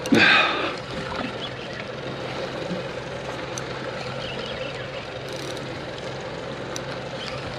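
Boat engine idling steadily, with a short loud burst of sound just at the start.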